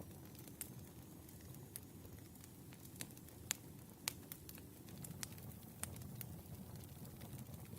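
Firewood burning in a fire, crackling and popping with irregular sharp snaps over a low, steady rumble of the flames.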